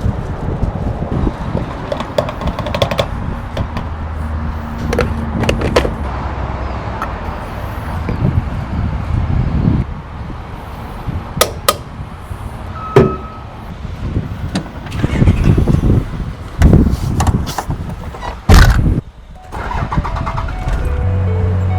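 Motor vehicle running with a steady low rumble and wind noise, with scattered knocks and clicks and a loud thump near the end.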